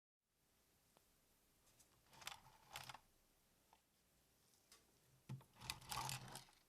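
Hard plastic toy parts being handled, with two short bursts of clicking and clattering as pieces are moved and snapped into place.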